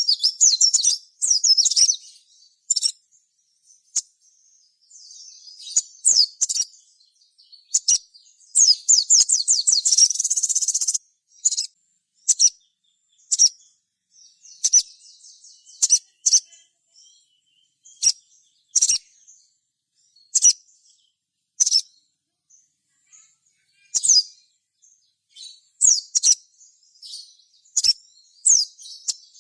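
Crimson sunbird (sogon) singing: high, sharp chirps and quick trills in short phrases with quiet gaps between them, and a longer, denser trill about eight to eleven seconds in.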